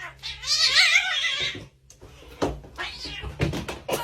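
A cat yowling in one long call with a wavering pitch, followed by shorter, quieter sounds.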